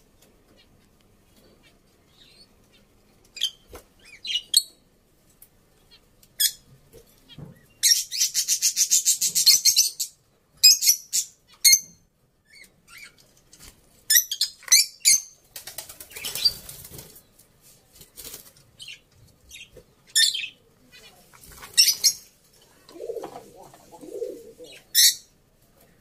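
Birds chirping in short, high-pitched calls, with a fast, evenly repeated run of strokes about eight seconds in and a lower call near the end.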